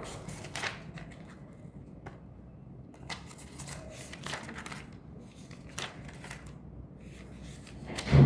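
Irregular soft rustling and scratching strokes of paper being handled, with a louder thump near the end.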